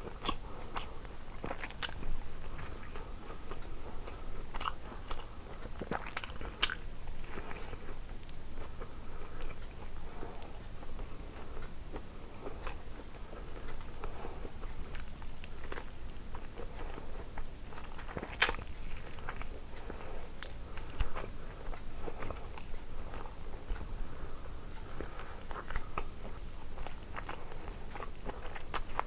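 Close-miked eating: biting and chewing with irregular crunches, clicks and mouth noises, as from crispy fried chicken and momos.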